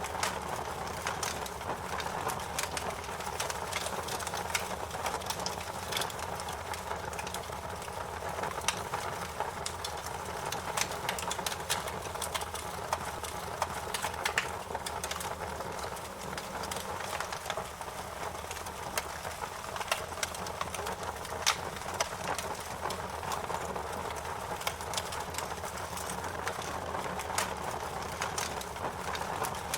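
Wood fire crackling in a fireplace: a steady low hiss of burning with frequent irregular sharp pops and crackles.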